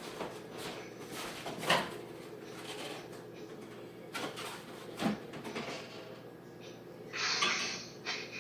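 Scattered knocks and clicks of things being handled, like cupboard doors or containers, with a short rustling hiss about seven seconds in.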